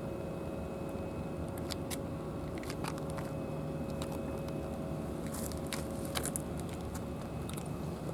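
Cats crunching dry food: irregular crisp crunches and clicks over a steady low hum.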